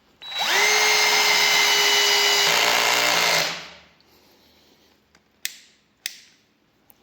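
Parkside PABS 20 Li G8 cordless drill driving a drywall screw with its clutch set to 1. The motor spins up to a steady whine for about three seconds, and a rough low chatter joins it in the last second as the clutch slips, then it stops. Two sharp clicks follow.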